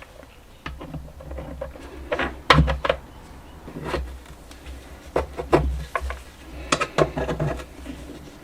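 Hand work on a workbench: parts and tools being handled, giving irregular clicks and knocks, the loudest about two and a half seconds in and again near seven seconds.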